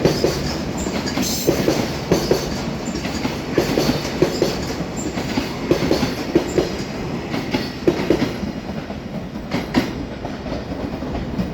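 Freight train wheels clacking over rail joints as Koki container wagons pass through: a steady rumble with repeated knocks, often in pairs, every second or so.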